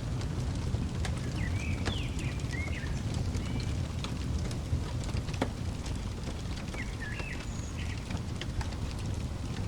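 Wood fire crackling with frequent sharp pops over a low steady rumble. A songbird chirps short phrases twice, about one and a half seconds in and again around seven seconds.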